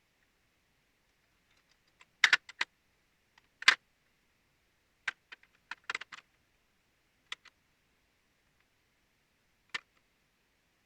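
Irregular sharp clicks and taps, about a dozen, some in quick pairs, over a faint steady hiss.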